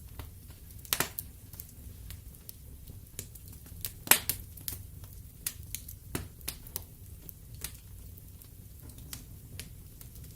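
Logs burning in a fireplace, crackling with irregular sharp pops and snaps over a low steady rumble. The loudest pop comes about four seconds in.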